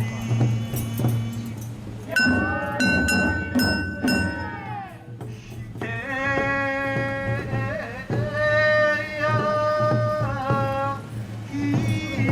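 Japanese festival float music (matsuri hayashi): a melody of long held notes over a steady low drum beat.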